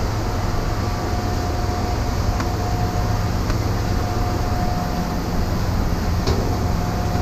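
Steady low mechanical rumble with a faint constant whine above it, and a couple of light clicks.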